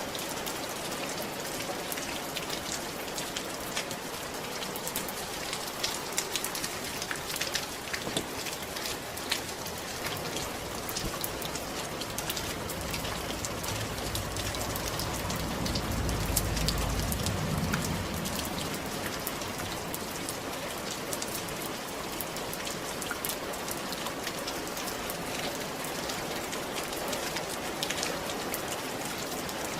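Steady rain falling on a roof, with a dense patter of individual drop ticks. About halfway through, a low rumble swells for a few seconds and fades.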